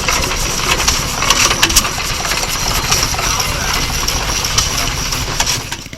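An engine running, with a dense mixed clatter and a few sharp metallic clicks over it.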